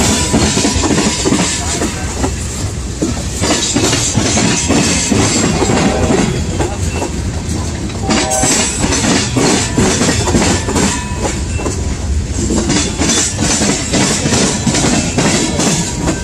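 CSX freight train of tank cars, covered hoppers and boxcars rolling past close by: a loud, steady rumble of steel wheels on rail with rapid clickety-clack over the rail joints.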